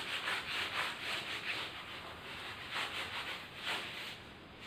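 Someone writing by hand: a run of short scratchy strokes that die away about four seconds in.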